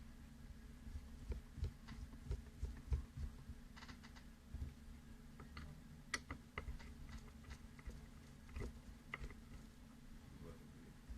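Irregular small clicks and taps of metal knife parts and tools being handled while an Ontario RAT 1 folding knife is serviced and reassembled, over a steady low hum.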